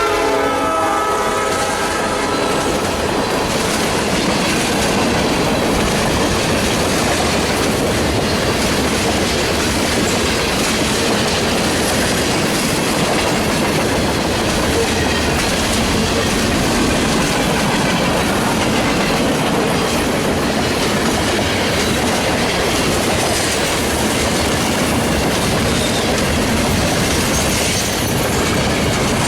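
Freight train passing close by: a locomotive horn chord fades out in the first second or two, then the cars roll past with a steady rumble and clatter of wheels over the rails.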